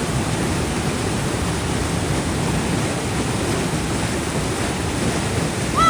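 Loud, steady rushing of floodwater in a swollen mountain stream after heavy rain. Near the very end a brief high pitched sound cuts in.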